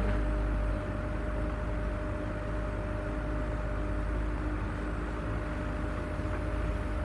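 Off-road vehicle's engine running at a steady speed with a low rumble, as the vehicle crawls along a rough track.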